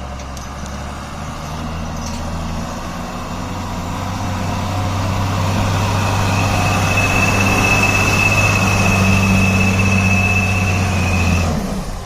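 Truck engine running under load, growing steadily louder, with a steady high whistle held for several seconds in the second half. Engine and whistle drop away together just before the end.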